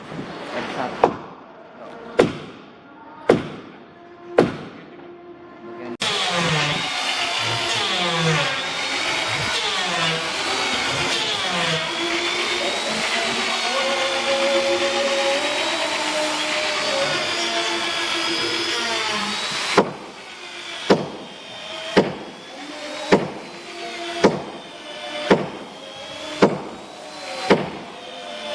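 Steady hammer blows on wood, about one a second, with a ringing note after each. Near the quarter mark they give way to a power tool running for about fourteen seconds, its pitch wavering. The hammering then resumes at the same pace.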